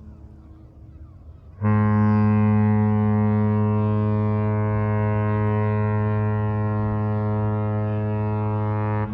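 Cruise ship Mein Schiff 3's horn giving one long, deep, steady blast on departure. It starts suddenly about a second and a half in and cuts off near the end.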